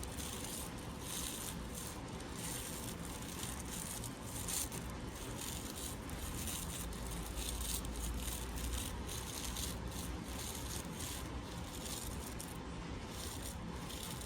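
Toothpaste-coated small brush scrubbing a diamond ring: repeated bristle strokes, about two to three a second, over a steady low hum.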